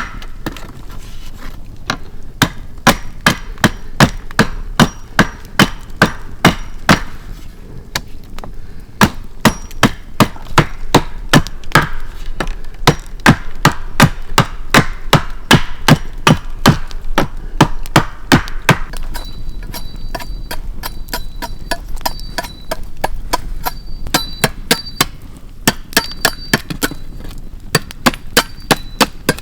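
A knife chopping on a wooden cutting board, with steady sharp strokes about two a second and a few short pauses. From about two-thirds of the way in, short high tones sound between the strokes.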